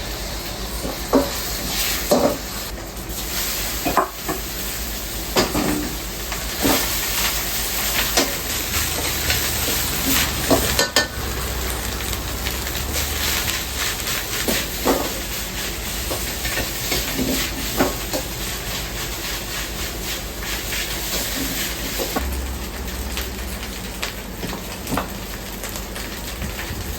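Food frying in a hot pan: a steady sizzle with irregular metal clanks and scrapes, typical of fried rice being stir-fried in a wok.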